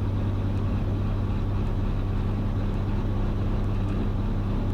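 Robinson R44 Raven II helicopter's six-cylinder Lycoming engine and rotors running at a steady drone on the ground during the pre-takeoff run-up and magneto check.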